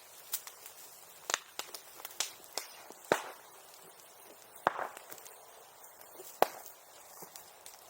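Bonfire crackling, with sharp, irregular pops and snaps of burning wood, about a dozen in all and a few loud ones spaced a second or two apart.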